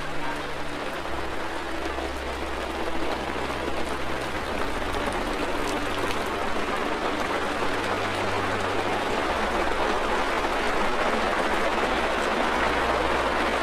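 Steady rain: a dense, even hiss that grows a little louder toward the end.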